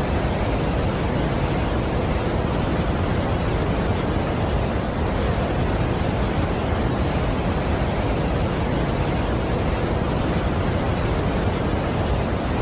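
Steady, unbroken rush of water pouring over a large waterfall, an even noise heaviest in the low range.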